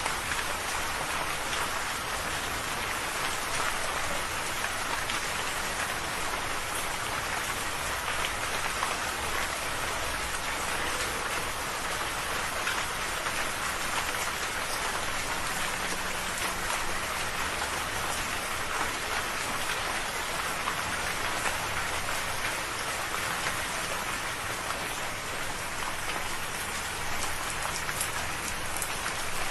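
Steady rain falling, an even hiss with fine scattered drop patter throughout.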